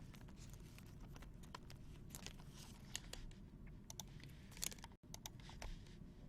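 Faint, irregular clicks and light rustling from trading cards and their wrappers and sleeves being handled on a table.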